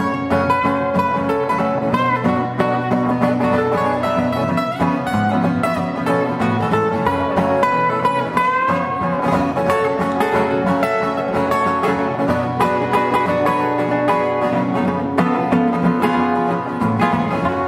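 Acoustic guitars playing an instrumental break in a live folk-blues song, with a steady picked rhythm and sustained melody notes and no singing.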